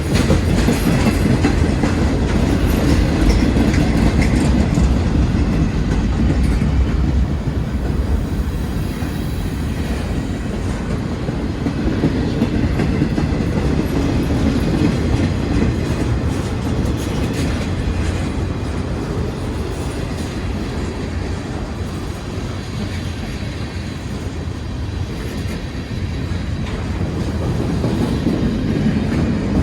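Manifest freight train rolling past, with a steady rumble and the clickety-clack of car wheels over the rail joints. It eases off a little mid-way and grows louder again near the end.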